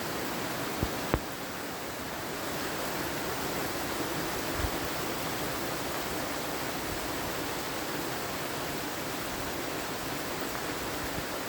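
Heavy rain pouring down steadily, an even hiss, with two short clicks about a second in.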